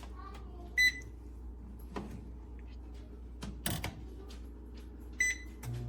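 Air fryer toaster oven's digital control panel beeping twice as buttons are pressed, with a few clicks and knocks between the beeps. Just before the end the oven starts up with a steady low hum of its fan.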